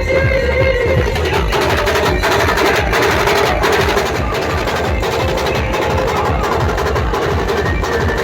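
Band music with fast, driving drum percussion under a sustained melody line.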